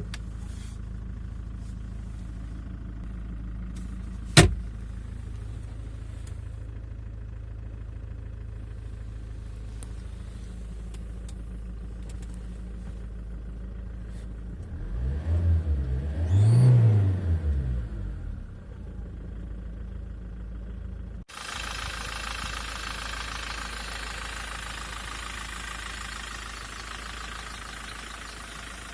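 Ford Transit's 2.4-litre four-cylinder turbodiesel idling steadily, with one sharp click about four seconds in. It is revved twice in quick succession around the middle, the pitch rising and falling each time. Near the end the sound cuts abruptly to a steadier, hissier engine hum.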